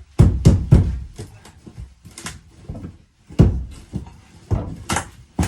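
A run of irregular knocks and thuds against the wall, with several loud bangs near the start and a few more later.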